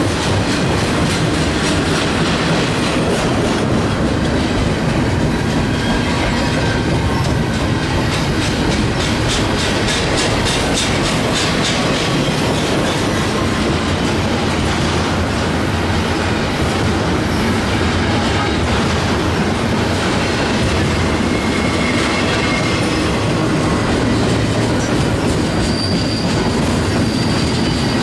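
Freight train cars rolling past: a steady rumble of steel wheels on the rail with rhythmic clickety-clack over the joints, and a faint high wheel squeal near the end.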